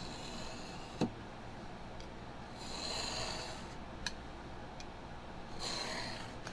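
X-Acto knife blade drawn through foam padding in three rasping strokes, trimming a panel edge, with a couple of sharp clicks in between.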